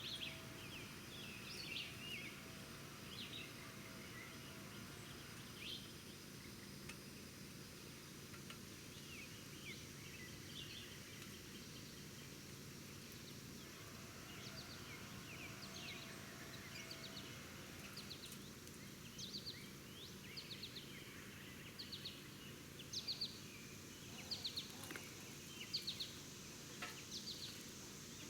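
Small birds chirping outdoors: short, high, quick notes, scattered at first and coming faster and louder in the second half, over a faint steady low hum.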